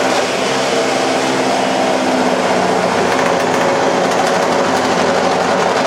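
Electric hand mixer running steadily on its lowest speed, its beaters worked against a moistened latex balloon.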